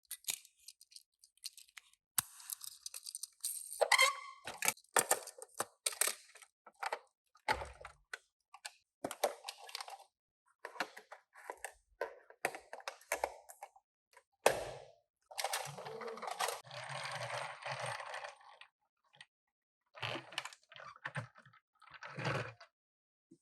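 Hands handling toy-car packaging: a run of small clicks, crackles and rustles, with a longer stretch of crinkling about two-thirds of the way through.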